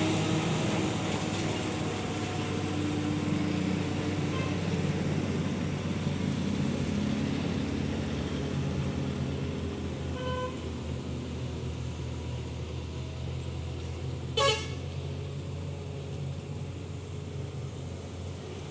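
A heavy truck's engine runs steadily with a low drone that slowly fades. A vehicle horn toots faintly twice, then gives one short, loud blast near the end.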